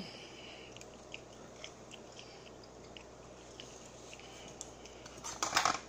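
Chewing fried chicken: faint wet mouth clicks and smacks, with a louder burst of eating noise about five seconds in.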